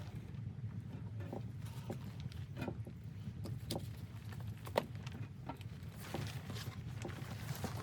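Footsteps crunching in snow, slow and uneven, about one a second, over a steady low rumble.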